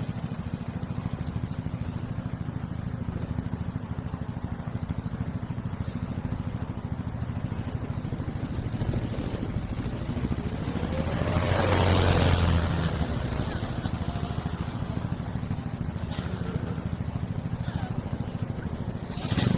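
Motorcycle engine running steadily with a fast, even pulse. About twelve seconds in, a passing vehicle swells up and fades away.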